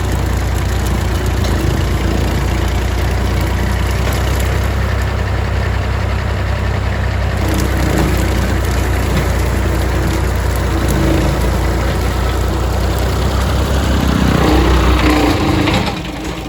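Small tractor's engine running steadily while driving a large brush cutter, with a strong low hum. About a second before the end the running sound drops in level.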